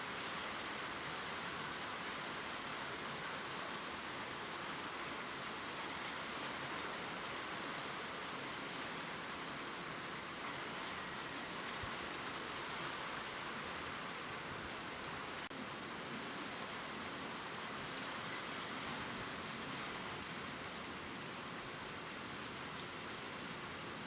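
Gentle steady rain falling on leaves, a continuous even hiss with faint scattered drop ticks.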